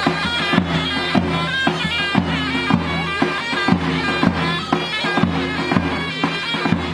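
Loud folk dance music: a reedy wind instrument playing a melody over a steady low drone, with a regular drum beat.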